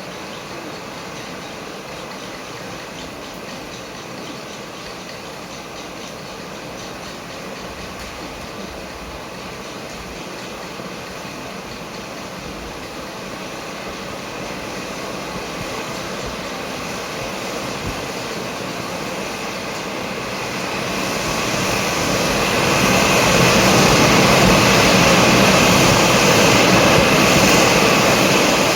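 Fukizutsu bamboo-tube firework spraying sparks with a steady rushing hiss. It builds gradually and swells to its loudest over the last third.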